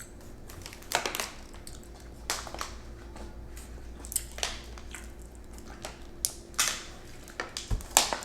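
Crunching and chewing of crispy breaded spicy chicken nuggets close to the microphone, a dozen or so irregular crunches.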